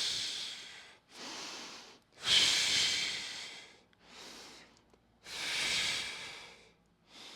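A person's slow, deep breathing held through a stretch, each long, louder exhale followed by a shorter, softer inhale, about three breaths in all. The breathing is paced to ease further into the stretch on every exhale.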